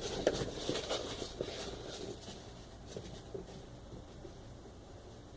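Faint scattered clicks and light rustling of hands handling parts, thinning out to a quiet background in the second half; the engine is not running.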